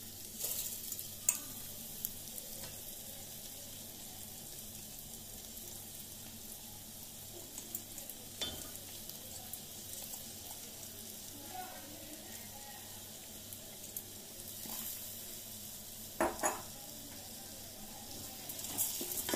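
Soaked rice frying in ghee with onion-tomato masala in a pan, sizzling steadily while it is stirred, with a few sharp knocks of the spoon against the pan, the loudest about 16 seconds in. The rice is being fried until it turns dry, before water is added.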